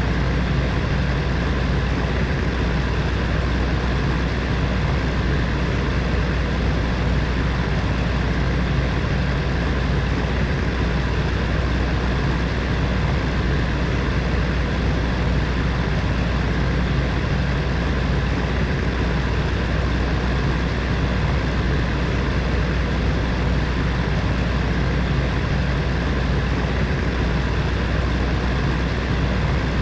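Space heater's fan running steadily: a low hum under an even rushing of air.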